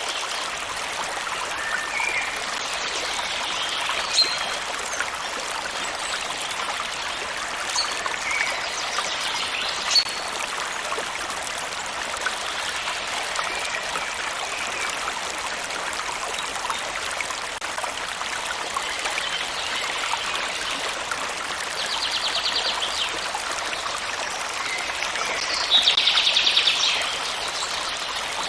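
A stream running steadily over stones, with birds chirping here and there. A rapid trill sounds twice near the end, the second one louder.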